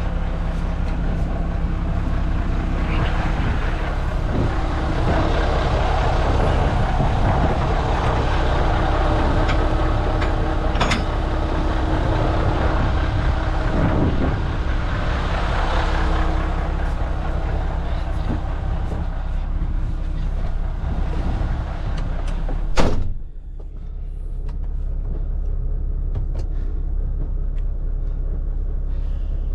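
Heavy diesel vehicle engine running steadily in a field, with one sharp loud bang or burst about three quarters of the way through, after which the sound turns duller.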